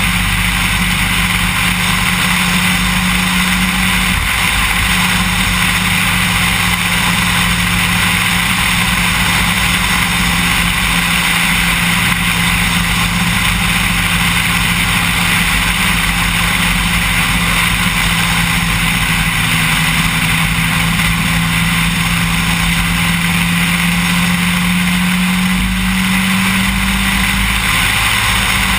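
Engine of an engine-swapped Opel Kadett E running at a steady speed: a constant drone that drops slightly about four seconds in and slowly climbs back, over a steady hiss.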